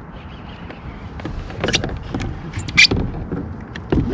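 Fishing reel whirring while a large lake trout is fought from a kayak, with a few sharp clicks and knocks, loudest just under two seconds in and near three seconds.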